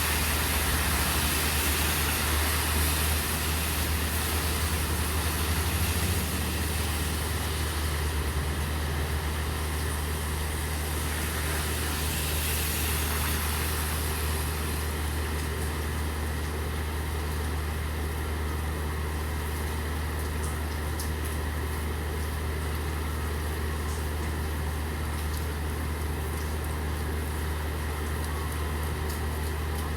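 Steady rain falling, with a constant low drone underneath. The hiss is louder in the first half and eases about midway, and scattered drops tick in the second half.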